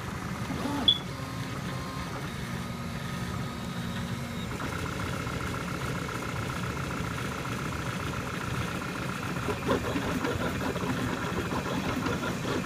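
CTC 3D printer, a MakerBot-style dual-extruder machine, running steadily mid-print: fan noise with the stepper motors whining as the print head moves. A short click comes about a second in, and a steadier motor tone comes in about four and a half seconds in.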